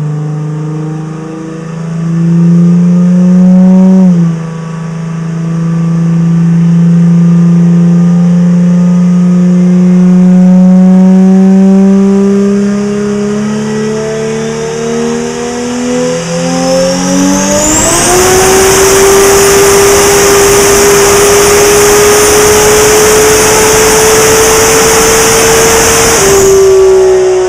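Turbocharged 1993 Toyota Supra inline-six running on a chassis dyno. It holds steady revs with a shift about four seconds in, then opens up near 18 seconds into a loud wide-open-throttle pull at about 38 psi of boost with a high whine. It climbs to about 8,400 rpm and shuts off sharply just before the end.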